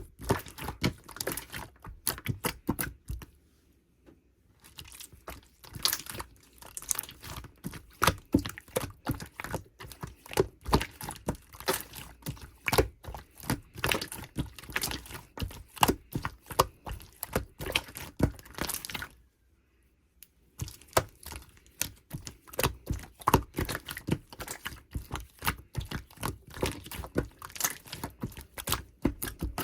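Hands squeezing and pressing clear slime, a rapid run of sticky clicks and pops. It stops briefly about three seconds in and again about nineteen seconds in.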